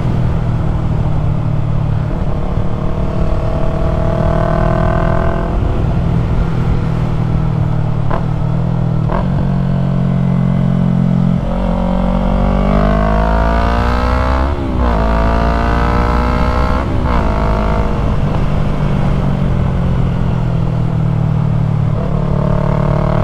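2020 Yamaha MT-03's 321 cc parallel-twin engine breathing through a full-system aftermarket exhaust while riding, the engine note rising and falling several times as it accelerates and shifts gears, busiest about halfway through.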